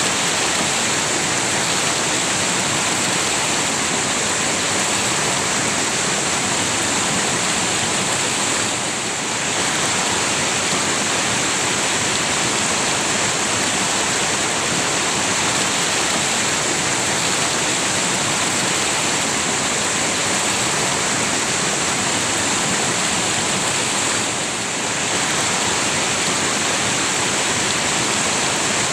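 River water rushing steadily, a constant even hiss, briefly a little softer twice.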